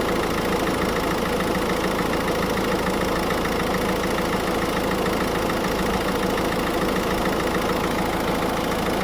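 Car engine idling steadily with the air-conditioning compressor engaged.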